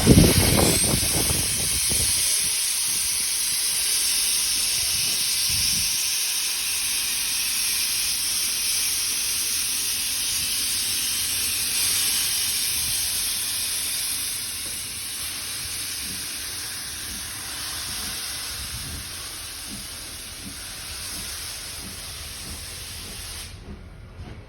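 Steam locomotive 41 241 letting off steam: a steady, loud hiss that fades a little and cuts off suddenly near the end, after a brief low rumble at the start.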